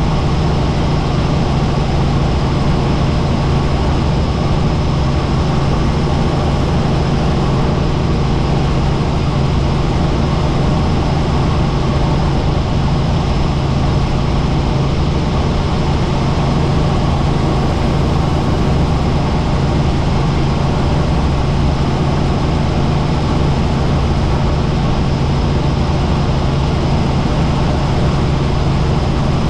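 Helicopter in flight: steady, unbroken rotor and turbine noise with a strong low hum and a thin high whine above it.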